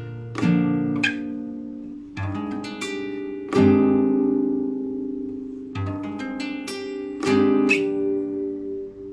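Solo guitar improvising in rolled, arpeggiated chords. A new chord comes every one to two seconds, each left to ring and fade.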